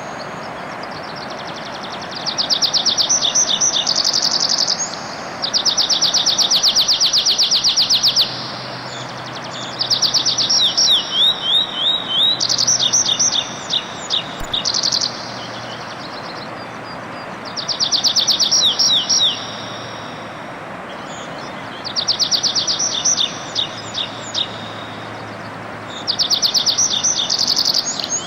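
Songbird singing: high-pitched phrases of fast repeated notes, each lasting two to three seconds, repeated about seven times with short pauses between them, over a steady background rush.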